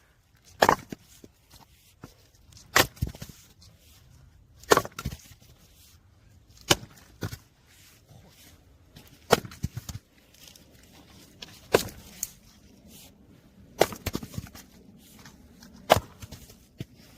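Firewood being split: a sharp crack of wood about every two seconds, eight in all, each followed by a few smaller knocks as the split pieces fall.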